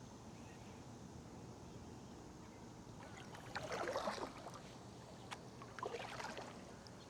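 Kayak paddle strokes in the water, two swishing splashes with drips, the first about three seconds in and a lighter one about six seconds in.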